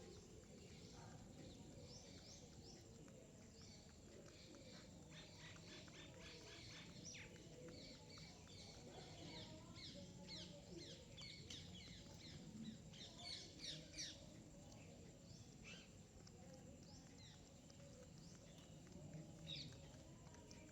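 Small birds chirping: many short, quick calls that thicken into a dense flurry in the middle, with a few louder chirps just past the middle, heard faintly over low background noise.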